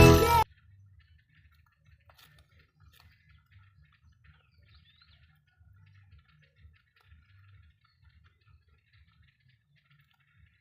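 Rabbit chewing food: faint, quick, irregular crunching clicks. Loud cheerful music cuts off about half a second in.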